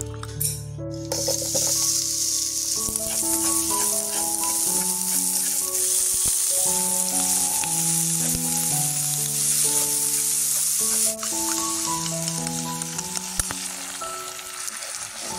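Food sizzling in hot oil in a pan, starting about a second in and then holding steady, over background music.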